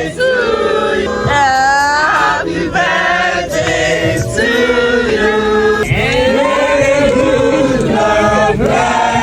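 A group of voices singing together over music, moving through held notes with no pause.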